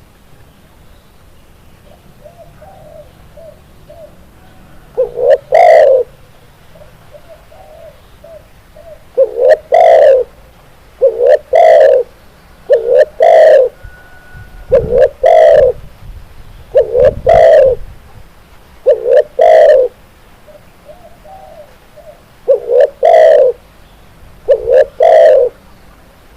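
Spotted dove (tekukur) cooing: loud coos, mostly in close pairs, repeating every second or two, with softer short coos between them.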